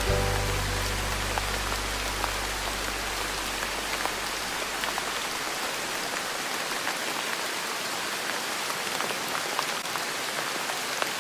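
Steady rain pattering on a surface, with scattered individual drop ticks. The low notes of soft background music ring out and fade away over the first few seconds, leaving only the rain.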